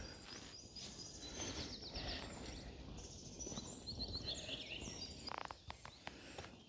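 Small songbirds chirping and trilling faintly over a low background rumble, with a few soft clicks a little past halfway.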